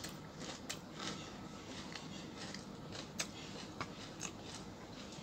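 People chewing food with faint scattered crunches and small clicks of eating by hand.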